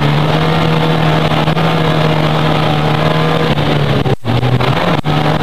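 Racing car's engine heard from inside the cabin, held at high, steady revs. About four seconds in the sound breaks off for an instant and the pitch dips briefly, then picks up again.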